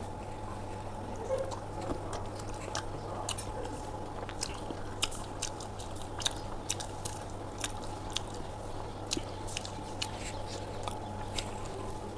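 A person chewing food with the mouth open, making repeated sharp, wet smacking clicks at an irregular pace, over a steady low hum.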